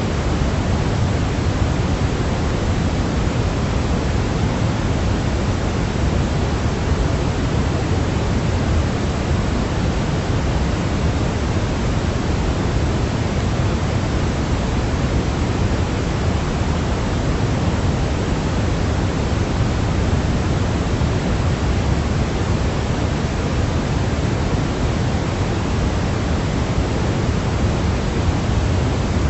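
Steady, unbroken pink-type noise, a constant hiss heavier in the bass than in the treble, played as a baby sleep sound.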